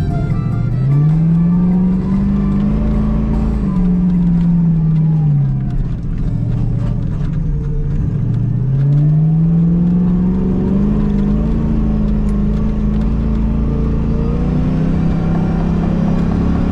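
Off-road vehicle's engine driving through soft dune sand, revving up and easing off twice, then pulling steadily at higher revs near the end.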